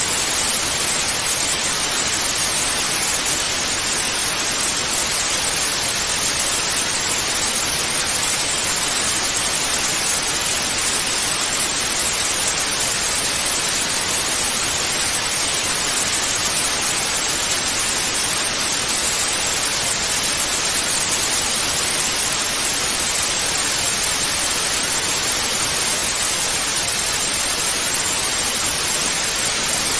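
Television static hiss: a steady, unchanging hiss, strongest in the upper middle range.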